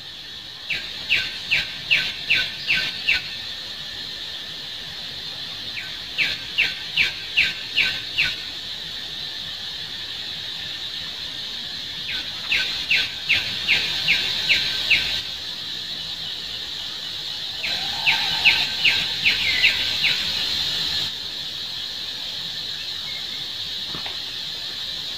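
A bird calling in four runs of short, sharp notes, about seven notes to a run at roughly three a second, over a steady high insect drone.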